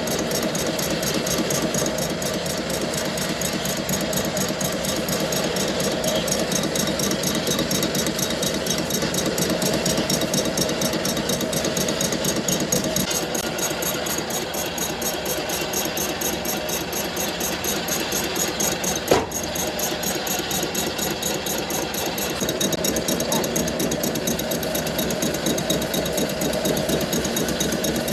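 Workshop machinery running steadily with a fast, even mechanical pulse, with one sharp knock about two-thirds of the way through.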